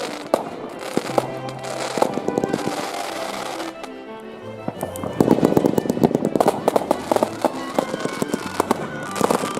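Fireworks banging and crackling in quick runs of sharp reports, densest about five to seven seconds in, with music playing underneath.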